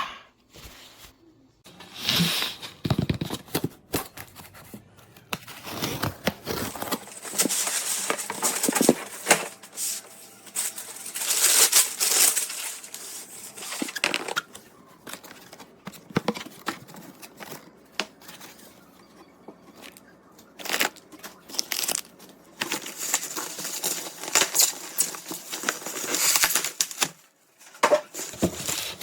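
Irregular rustling, crinkling and tearing handling noises in bursts lasting a few seconds, with short clicks between them.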